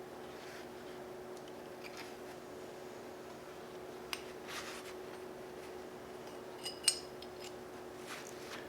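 A few light metallic clinks from working a connecting-rod cap off a Gen 4 Hemi's crankshaft, the sharpest about seven seconds in, over a steady low hum.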